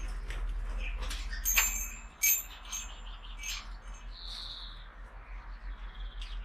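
Budgerigars chirping in short, high calls, with a few sharp clicks, the loudest a little over two seconds in.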